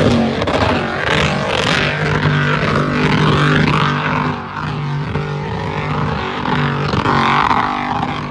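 A vehicle engine running at a steady idle, its pitch holding constant.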